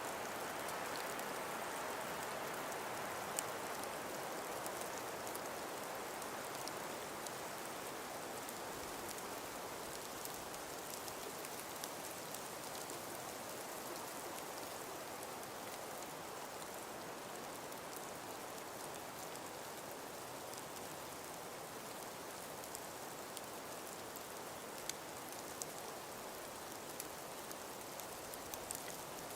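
Calm breeze blowing steadily through a frost- and ice-covered forest: an even hiss that eases slightly after the first few seconds, with faint scattered ticks.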